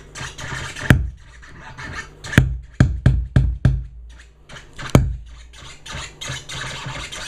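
Record scratching through a speaker from a Numark NS7 DJ controller, broken by sharp loud clicks, with a quick run of four near three seconds in and single ones about a second and five seconds in. The clicks are the fault that comes from the speaker only while scratching with this computer, cause unknown to the owner.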